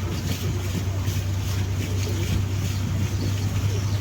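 Boat engine running steadily, a constant low hum with water and wind noise over it.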